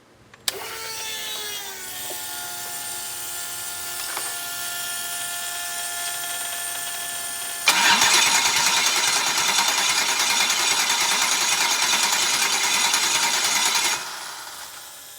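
GM Vortec V8 being cranked on its starter without firing: a steady whine starts with a click, then about eight seconds in the louder cranking runs for about six seconds and cuts off suddenly. The engine does not catch because it has no spark, the sign of a failed crank position sensor.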